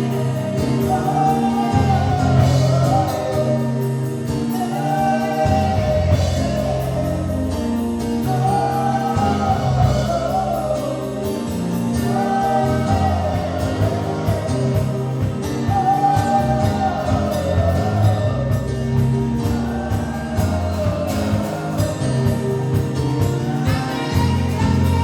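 Live gospel worship music: voices singing a short melodic phrase again and again over a steady band with bass.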